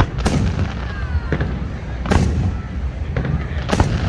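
Fireworks bursting: three loud booms, about a third of a second, two seconds and nearly four seconds in, with a couple of weaker pops between them, over a steady low rumble.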